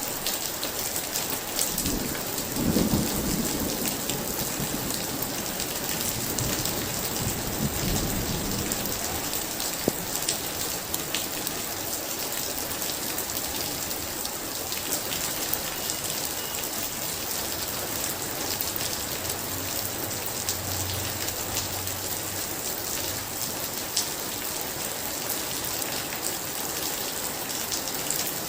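Heavy rain pouring steadily in a thunderstorm, with a roll of thunder rumbling a couple of seconds in and fading over several seconds, and a fainter distant rumble later.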